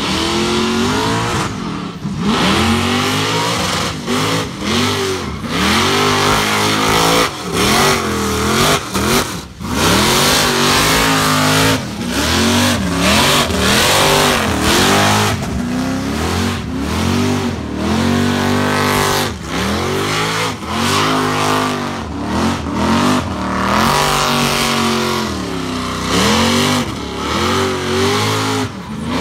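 Supercharged Holden Commodore burnout car running hard through a burnout, its engine revving again and again so the pitch keeps rising and falling, with short drops as the throttle comes off. Under the engine is a steady hiss from the spinning rear tyres.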